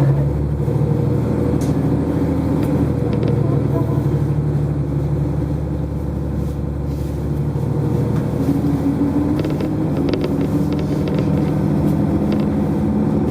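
Diesel railcar heard from inside the passenger cabin: a steady low engine rumble and hum, with a few faint clicks and rattles.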